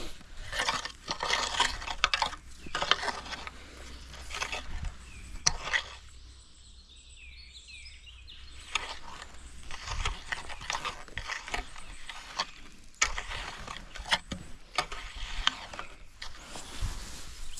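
Repeated crunching and scraping in sand and gravel from footsteps and hand work, with a quieter pause about six seconds in, over a faint steady low hum.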